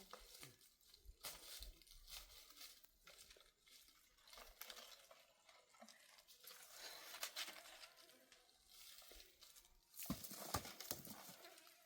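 Faint rustling and crinkling with scattered light clicks and knocks, and two sharper knocks near the end.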